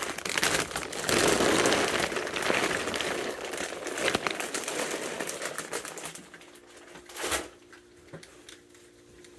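Raccoons cracking and chewing peanuts in the shell: a dense crackling and crunching that dies down after about six seconds, with one sharp knock about seven seconds in.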